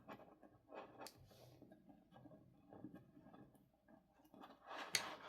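Faint scraping, rustling and small ticks of miniature toy soil and tiny plastic pieces being packed down by hand, with a sharper click about a second in and a louder rustle near the end.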